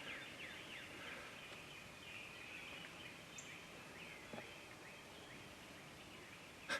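Faint outdoor background of songbirds calling, with many short down-slurred chirps overlapping throughout, and a single faint tick about four seconds in.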